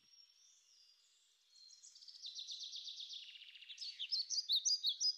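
Bird song: rapid high-pitched chirps and trills, faint at first and louder from about a second and a half in.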